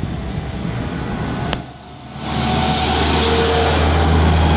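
Class 172 Turbostar diesel multiple unit running, its engine drone and hiss growing markedly louder about two seconds in and then holding steady. A brief click sounds just before the rise.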